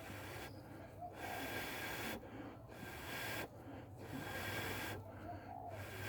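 A person blowing on a char-cloth ember in a tinder bundle of unravelled hemp rope to get it going: about four long, hissing blows of about a second each, with short pauses for breath between them.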